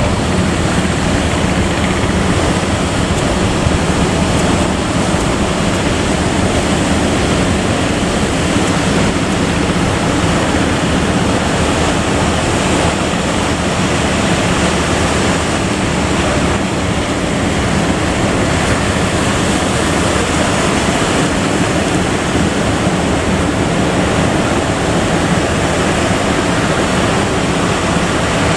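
Steady rush of wind and sea waves, with wind buffeting the microphone and a low steady hum underneath.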